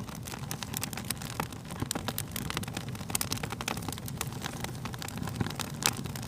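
Wood fire crackling: a steady low rumble of burning with many irregular sharp pops and snaps, a few louder ones standing out, one of them near the end.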